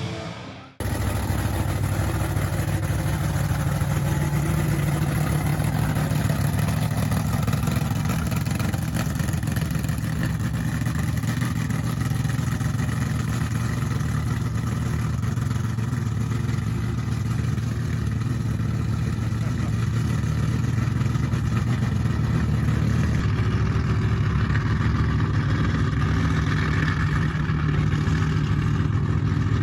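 A vehicle engine running steadily, cutting in abruptly about a second in and slightly louder in the second half.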